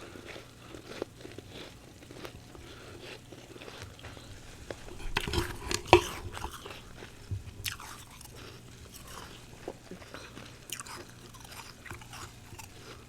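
Fluffy freezer frost ('humidifier frost') being bitten and chewed close to the microphone, a run of soft crunches with a louder burst of bites about five to six seconds in.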